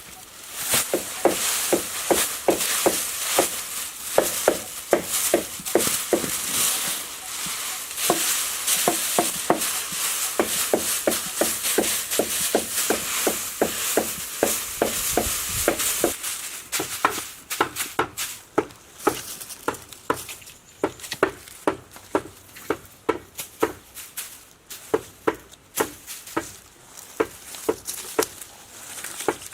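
Repeated knocks of a tool striking wood, about two a second and even for the first half, then faster and more irregular, over a steady hiss.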